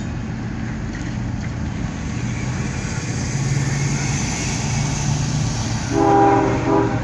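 Diesel locomotives of an oncoming CSX coal train: a steady low engine drone with a high hiss. A multi-note train horn sounds about six seconds in, for just under a second.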